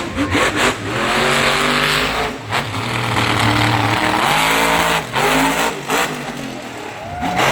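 Monster truck engine revving hard, its pitch climbing and falling in repeated surges with brief drops in between.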